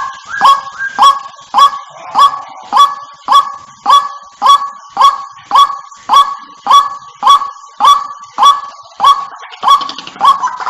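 White-breasted waterhen (ruak-ruak) calling, played as a bird-luring recording. A sharp, loud call note that drops slightly in pitch repeats at a very even pace, almost twice a second.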